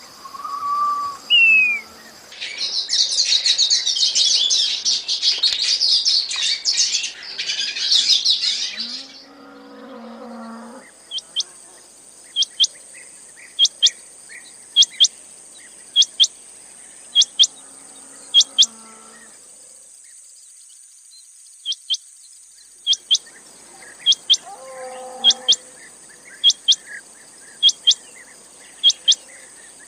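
Quail calling: a dense burst of high chirping lasting several seconds, then a series of short, sharp high call notes, several in pairs, roughly one a second with a short pause partway through.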